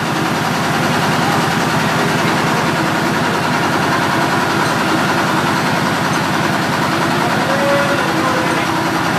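Mitsubishi 8DC10 V8 diesel engine idling steadily with an even, fast firing rhythm.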